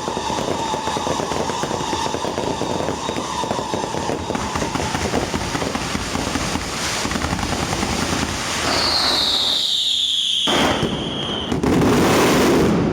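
Fireworks and strings of firecrackers going off in a dense, rapid crackle. About nine seconds in, a firework whistle sweeps down in pitch for a couple of seconds, and the loudest burst of crackling comes near the end.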